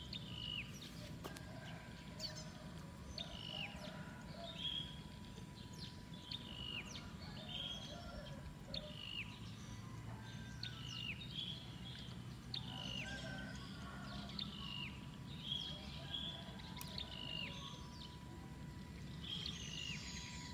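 A bird repeating a short, falling chirp over and over, a little under once a second, over a steady low background rumble and a faint steady high tone.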